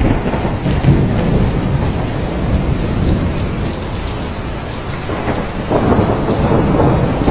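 Thunderstorm: steady heavy rain with low rolling thunder, the rumble dipping through the middle and swelling again about three quarters of the way through.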